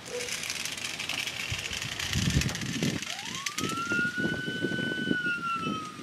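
A police-style siren winds up about halfway through, rising quickly in pitch, holding high, then slowly falling. It sounds over a hiss and scattered clicks and knocks.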